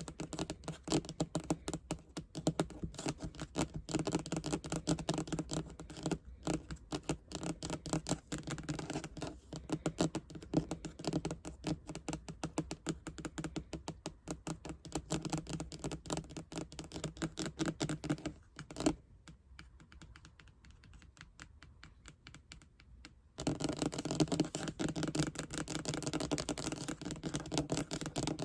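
Fast, dense ASMR tapping close to the microphone, many taps a second. It stops for about four seconds in the last third, then starts again.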